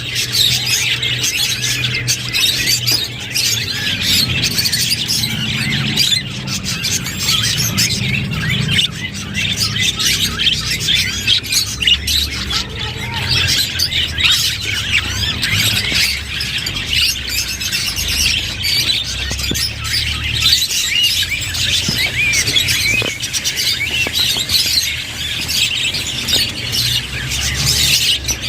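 Budgerigars chattering and warbling continuously, with dense, overlapping chirps and squawks.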